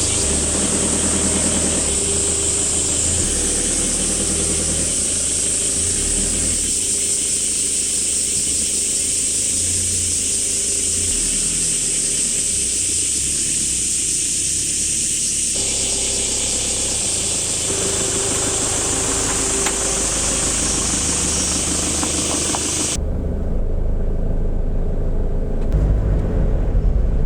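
A motor vehicle running, with low engine rumble under a steady high hiss, changing abruptly several times as if cut between clips. Near the end the hiss drops away and a heavier low rumble takes over.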